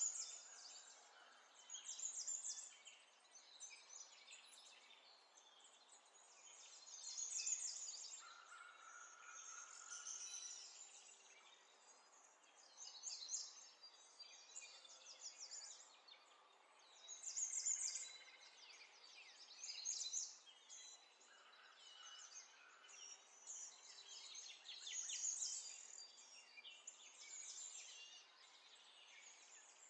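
Faint bird chirps and trills recurring every two to three seconds, with a short whistled note now and then.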